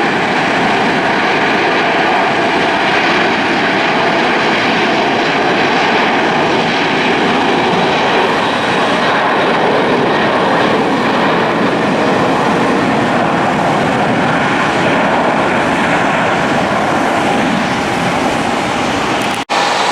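Jet airliner engines running loud and steady, a dense rush of noise with faint steady whining tones in it. The sound cuts out for an instant near the end and then resumes.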